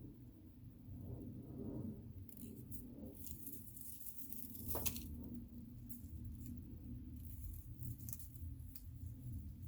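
Dried flowers and plant bits being handled: a scatter of small crackles and clicks, the sharpest about five seconds in, over a low steady hum.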